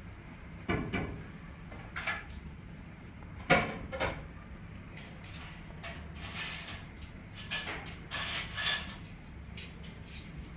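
Household objects being handled: a series of irregular knocks and clatters, the loudest about three and a half seconds in, over a low steady hum.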